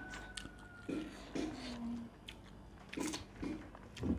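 Close-up eating sounds: irregular chewing and small wet clicks from a person eating goat-meat curry. There is a brief low hum about halfway.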